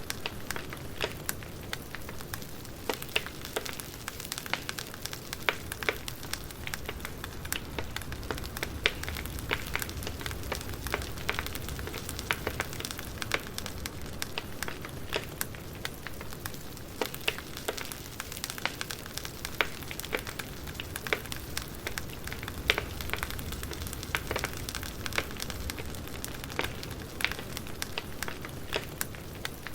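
Wood fire crackling: irregular snaps and pops, several a second, over a steady low rumble of burning logs.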